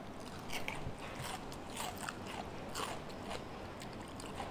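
Close-up eating sounds of two people biting and chewing crispy fried chicken: irregular crunches and clicks of chewing.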